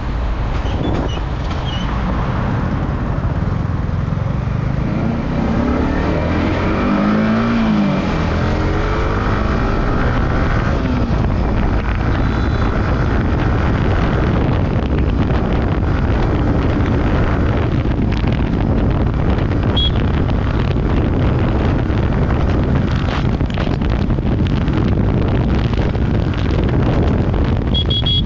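Riding noise from a Yamaha R15M motorcycle at speed: steady wind rush over the helmet microphone with engine and road noise underneath. A brief hum rises and falls about seven seconds in.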